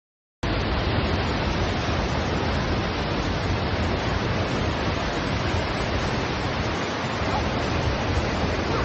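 A loud, steady rushing noise with no pitch or rhythm, cutting in abruptly about half a second in after dead silence.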